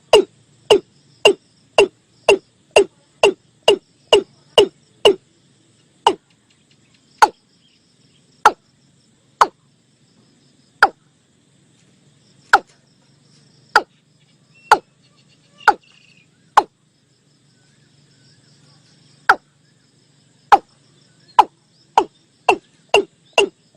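Watercock (Gallicrex cinerea) call: a series of short, loud, hollow notes, quick at first, then slowing and spaced out, with a pause, then quickening again near the end. Faint insects or frogs chirr underneath.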